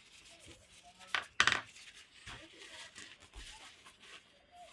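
Small metal parts or tools being handled: two sharp metallic clinks a little over a second in, then a few faint clicks.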